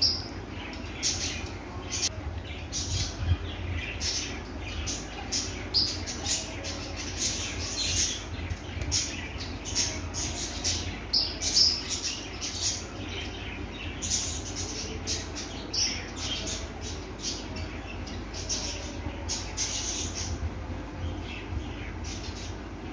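Birds chirping, many short high calls repeating throughout, over a low steady rumble.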